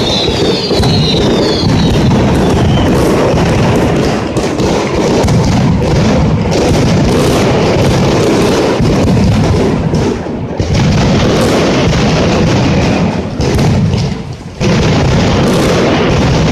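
Mascletà firecracker barrage: a dense, continuous rattle of bangs and booms, with falling whistles in the first few seconds and brief lulls about ten and fourteen seconds in.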